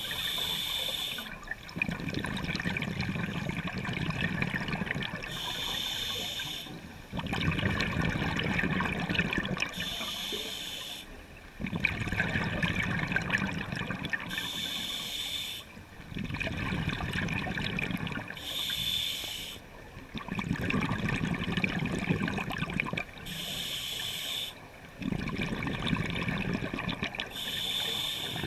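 Scuba diver breathing through a regulator underwater: a short hissing inhale every four to five seconds, each followed by a few seconds of bubbling exhale.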